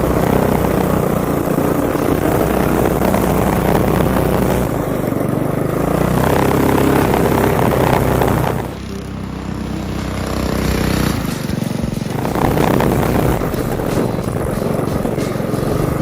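Mini bike's small single-cylinder engine running hard under throttle, easing off about nine seconds in, then building again.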